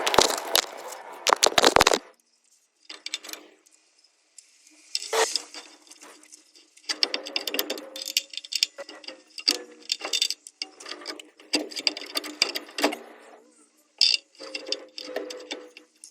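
Metal clinking and rattling in irregular bursts, typical of tools and gearbox parts being handled during work on a truck gearbox.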